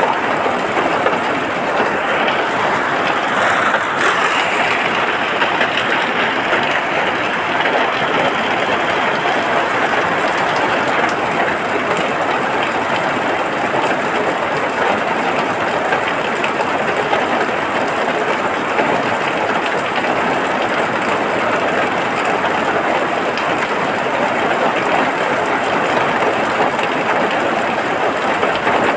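Steady rain, a dense even hiss that holds at one level throughout.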